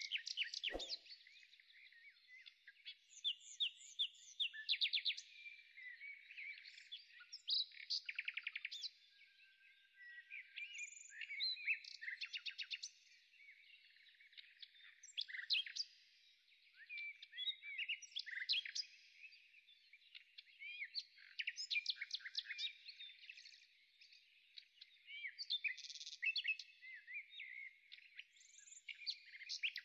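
Birdsong: several small birds chirping and trilling in quick, high repeated phrases, coming and going every second or two. A brief dull knock about a second in.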